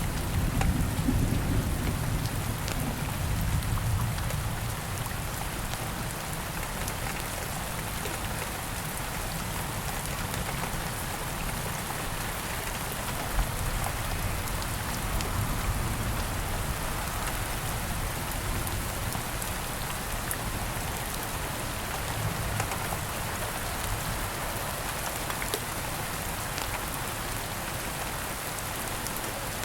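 Steady rain falling, with a low rumble of thunder that fades over the first few seconds. Scattered faint crackles from a campfire, one sharper pop about 13 seconds in.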